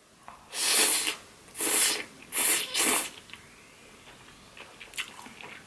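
Three short, loud rushes of air from the eater's mouth or nose in quick succession, each about half a second long, over the first three seconds; then only faint small ticks.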